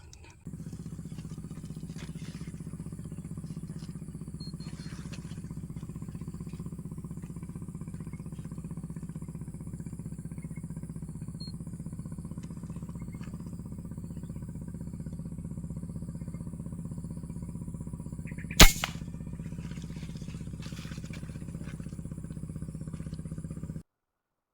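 A steady low mechanical hum that cuts off suddenly near the end. About three-quarters of the way through, a single loud, sharp crack of a PCP air rifle shot.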